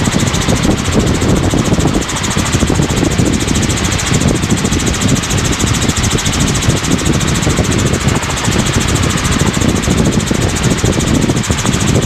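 Helicopter in cruise flight, heard from inside the cabin: steady rotor and engine noise with a fast, even pulsing from the rotor blades.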